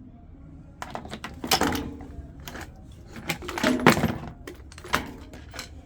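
Clatter of hard objects being handled: a series of sharp knocks and rattles, loudest about a second and a half in and again near four seconds.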